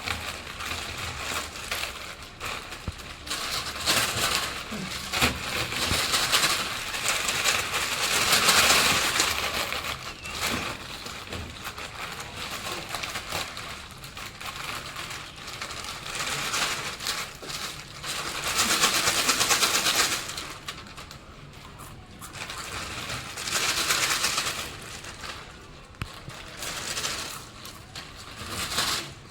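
Crinkling of plastic chips packets and crunching of potato chips, coming in repeated crackly swells, loudest about a third of the way in and again later.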